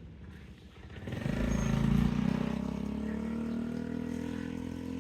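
A motor vehicle's engine grows loud about a second in and is loudest near two seconds. Its pitch then slowly falls as it passes and fades away.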